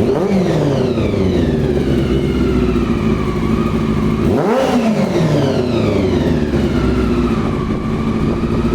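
Honda CBR400RR's carbureted inline-four running on the move, its carburettors freshly cleaned and synchronised. The revs fall steadily, a quick throttle blip comes about halfway through, and the revs then settle to a steady lower note.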